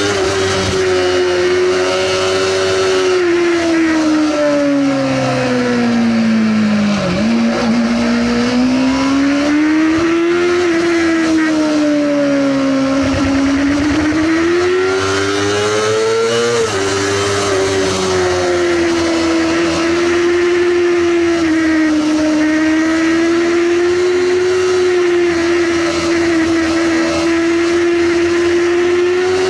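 Sportbike engine running at high revs while riding. Its pitch rises and falls slowly with the throttle, and drops sharply about two-thirds of the way through, like a gear change.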